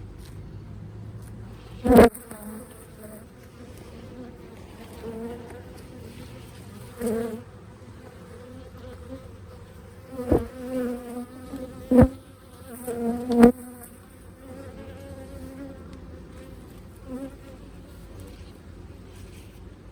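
Honey bees buzzing around an opened hive during a hive split, a steady drone. Four sharp knocks stand out as the loudest sounds, about two, ten, twelve and thirteen seconds in, with a few softer bumps between them.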